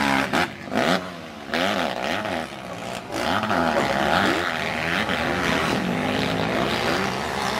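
Several motocross bikes' engines revving up and down as they race, their pitches overlapping and gliding as the riders open and close the throttle.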